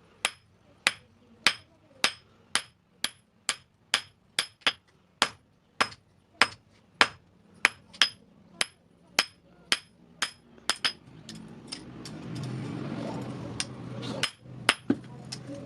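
Hammer striking metal on an anvil in a steady rhythm of about two ringing blows a second, as a blacksmith forges scissors. The blows stop a little before two-thirds of the way through, a low rushing noise rises for a couple of seconds, then a few more strikes come near the end.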